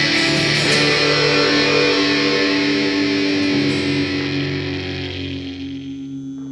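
Instrumental ending of a rock song: guitars hold a final chord that rings out and slowly fades away.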